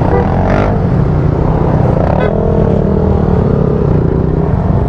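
Motor scooter engines running close by: a steady deep rumble, with engine notes rising and falling as scooters ride past.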